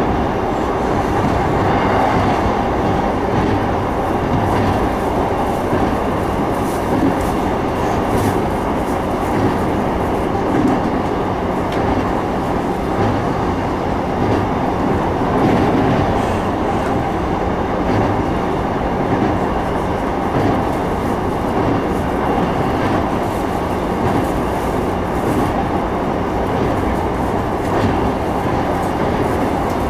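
E233-3000 series electric train running at speed, heard from inside the car: a steady rumble of wheels on the rails with faint clicks here and there.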